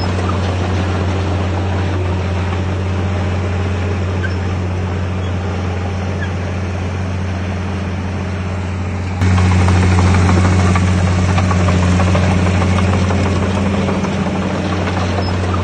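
Heavy diesel earthmoving machinery running steadily with a low, even hum. It gets abruptly louder about nine seconds in.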